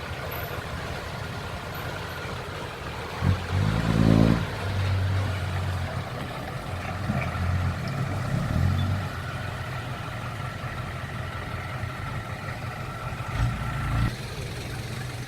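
Toyota Dyna six-wheel truck's engine running hard under load, with a loud rev-up about three to four seconds in and a shorter surge near the end.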